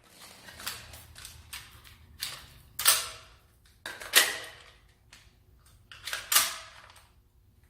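An airsoft rifle being fired and worked by hand during its simulated-misfire mode, making sharp mechanical clacks. There are three loud clacks about a second and a half apart, with lighter clicks of handling between them.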